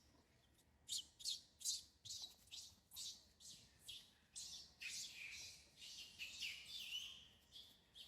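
Infant macaque giving a rapid series of faint, high-pitched squealing cries, about two a second, some drawn out longer in the middle.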